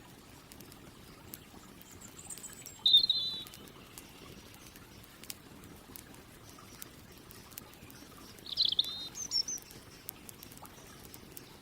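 Birds singing: two short bursts of twittering calls, about three seconds in and again near nine seconds, with fainter high chirps. Scattered small crackles of a campfire run underneath.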